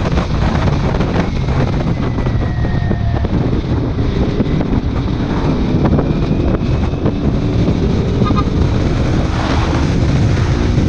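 Heavy wind noise buffeting the microphone while riding, over the running engine of a Kawasaki Ninja 400 parallel-twin with an aftermarket exhaust.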